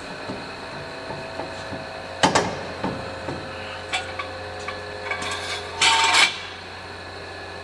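Metal exhaust parts being handled and set in place: a sharp double knock about two seconds in, a few lighter knocks, and a short scrape near the end, over a steady background hum.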